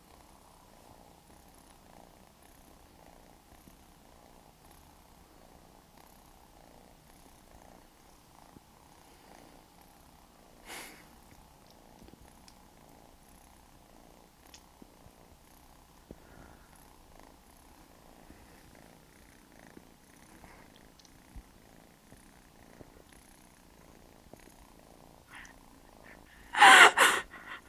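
Fold-eared cat purring steadily and quietly, with a brief loud pitched cry near the end.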